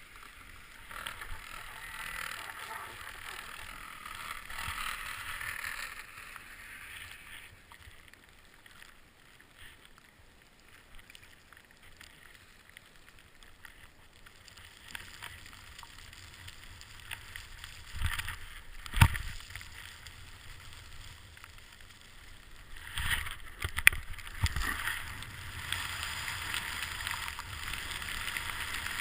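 Edges sliding and scraping over snow during turns on a ski slope: a hiss that swells and fades, with wind rumble on the microphone. There is a sharp knock about two-thirds of the way in and another a few seconds later.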